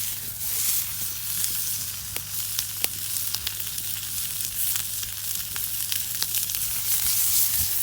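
Food frying in a deep campfire frying pan: a steady sizzle with scattered sharp pops.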